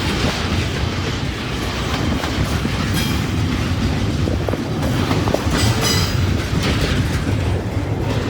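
Freight train rolling past, a steady rumble of wheels on rail with clicks as the wheels cross rail joints.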